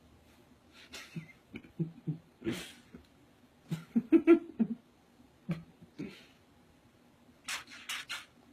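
A cat being smothered with kisses: a string of kissing smacks and breathy sounds, with short low sounds in two quick clusters.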